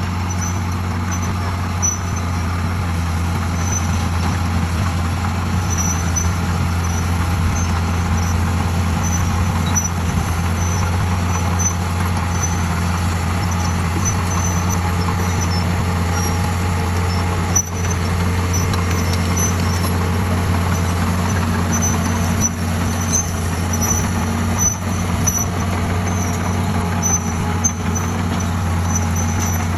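D41 crawler bulldozer's diesel engine running steadily under load as the dozer pushes, a constant low drone with faint intermittent high metallic ticks and a single knock about seventeen seconds in.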